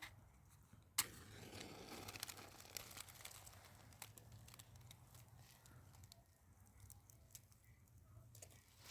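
Faint crinkling and rustling handling noises with scattered small clicks, and one sharp click about a second in.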